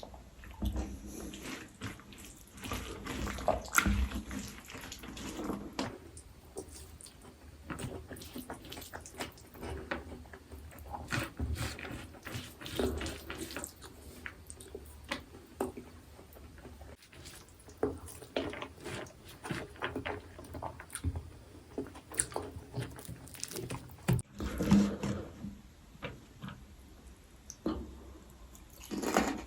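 Close-miked eating sounds: irregular wet chewing, lip smacks and mouth clicks as braised pork and rice are eaten, with a few louder clusters of smacking.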